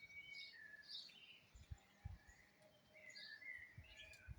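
Faint birds chirping and calling outdoors, short high chirps and gliding notes, with a few soft low thumps on the microphone.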